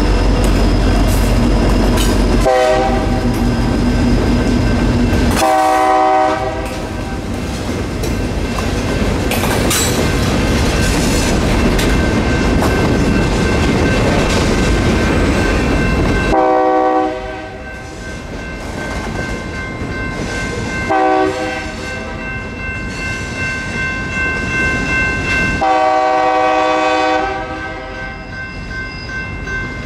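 A diesel freight train passes the crossing. It starts with the locomotive's heavy engine rumble, then freight cars roll by, wheels clicking over the rail joints. The lead locomotive's air horn sounds several blasts: two longer ones, a short one, then the longest, the pattern sounded for a grade crossing ahead. The crossing's electronic warning bell rings steadily throughout.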